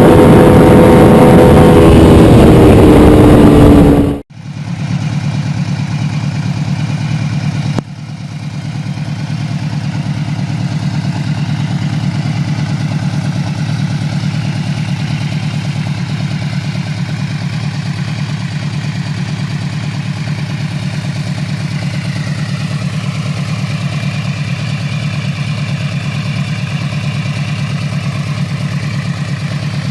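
Cruiser motorcycle engine: loud high revs sliding down in pitch for about four seconds, then after a sudden cut a steady, pulsing idle.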